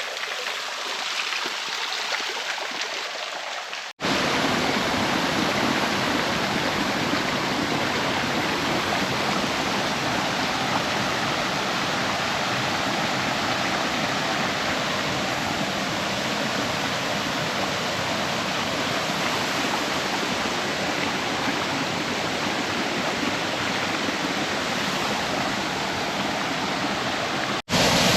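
Rushing water of a rocky creek and small waterfall: a steady, even rush. It changes abruptly about four seconds in and again near the end at cuts between shots, becoming louder and deeper after the first change.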